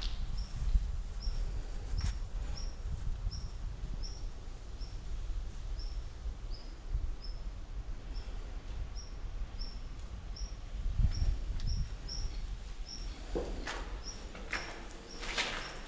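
A small bird repeating one short, high chirp over and over, about two to three a second, over a low steady rumble. A few footsteps scuff on the gritty concrete floor near the end.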